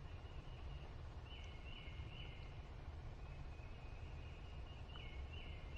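A songbird whistling short falling notes in a phrase of three, heard about a second and a half in and again near the end, with fainter notes between, over a steady low rumble of outdoor background noise.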